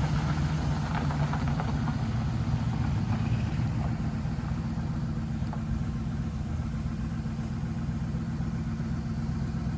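A 1950 Ford woodie wagon's engine idles steadily while still cold, shortly after a cold start on the hand choke. The deep exhaust note settles slightly quieter about four seconds in.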